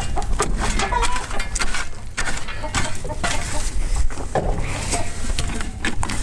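Chickens clucking, with scattered knocks and clicks over a steady low rumble.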